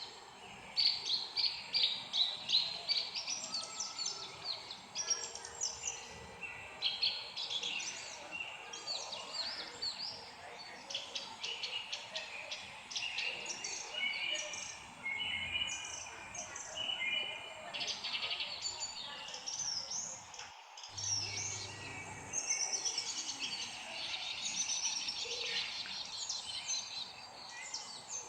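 Several songbirds chirping and singing at once: a dense chorus of short, high calls and trills that overlap without a pause. The sound cuts out for an instant about three-quarters of the way through.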